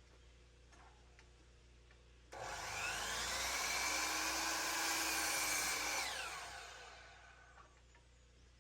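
An electric power tool motor switches on abruptly with a short rising whine, runs steadily for about four seconds, then is switched off and winds down with a falling pitch.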